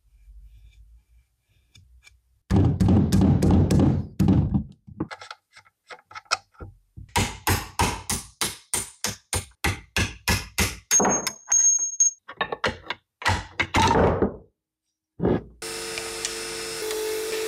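A run of knocks and sharp strikes from tools working on metal car parts, about three blows a second through the middle. Near the end a small power tool starts and runs steadily.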